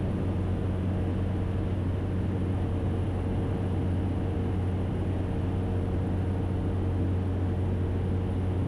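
Cessna Caravan's single turboprop engine and propeller in the climb, a steady cockpit drone with a low hum and a few fixed tones, at the reduced climb power and propeller rpm set after takeoff.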